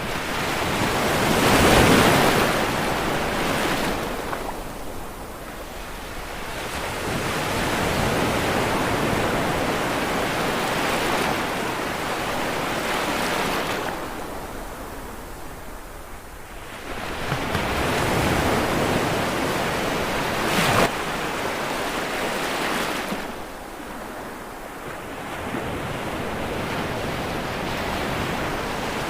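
Ocean waves breaking on the shore, coming in slow surges every several seconds, each swelling to a wash of surf and then drawing back, with one brief sharp splash about two-thirds of the way through.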